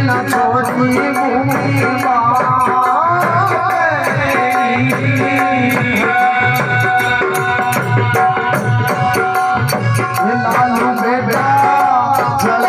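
Instrumental passage of a folk devotional song (bhajan): a steady, continuous beat on drums under a melody.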